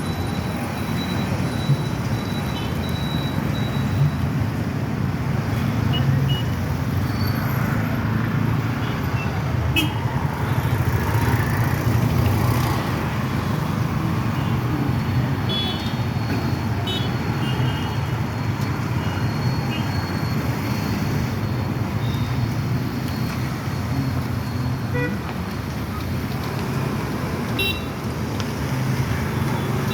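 Steady road traffic noise with a low rumble of passing vehicles, and a few short horn toots.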